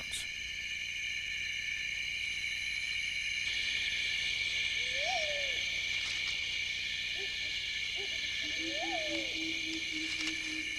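Night rainforest ambience: a steady high insect chorus, with two hooting calls that rise and fall in pitch, about five and nine seconds in. A low, even, pulsing note joins near the end.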